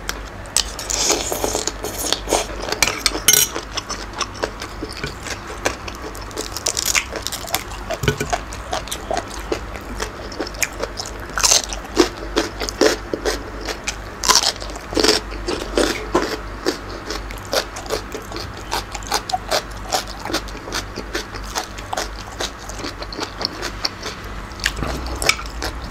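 A person biting and chewing crisp raw food, shredded green papaya salad and raw red cabbage, with a dense run of crunches and wet mouth sounds.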